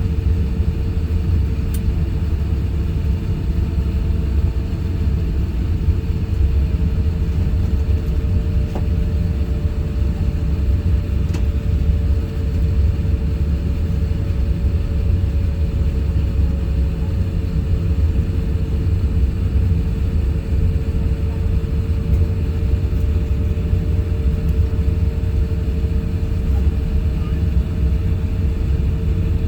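Steady jet-engine rumble heard inside the cabin of an Airbus A350-1000 (Rolls-Royce Trent XWB engines), with a constant hum and a fainter tone that sags slowly partway through and then climbs back.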